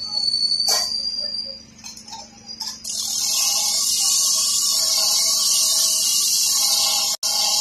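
A sharp metal-on-metal strike on the rail rings on as a high tone. About three seconds in, a loud, steady high hiss of rail-cutting or welding work starts and runs on, with a brief break near the end.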